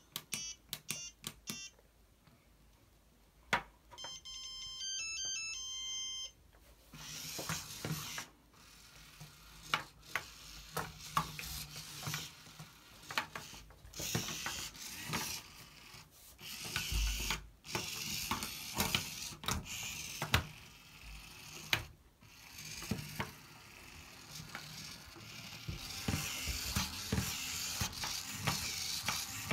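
Small geared motor of an OLLO robot-kit frog running, with its plastic parts clicking and rattling as the frog dances. A short electronic beep tune plays a few seconds before the motor starts.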